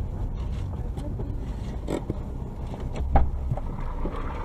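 Steady low rumble of a car driving, heard from inside the cabin on a dashcam, with a few light clicks and one louder knock about three seconds in.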